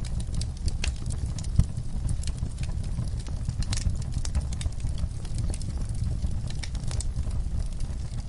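Wood fire crackling in a fireplace: irregular sharp pops and snaps over a steady low rumble of flame, with one louder pop about a second and a half in.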